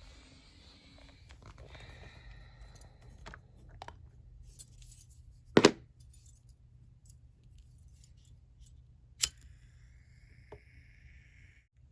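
Small clicks and clinks of hard objects being handled, with two sharp knocks: a doubled one about halfway through, the loudest, and a single one a few seconds later. A faint brief hiss follows near the end.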